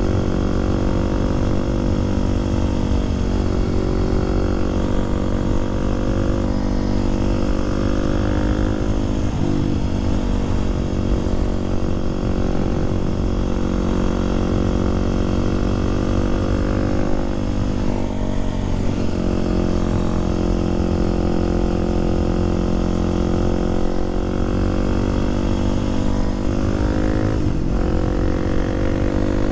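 Kawasaki KLX300SM supermoto's single-cylinder four-stroke engine running under way. Its pitch climbs slowly and then drops sharply about four times as the rider shifts up through the gears.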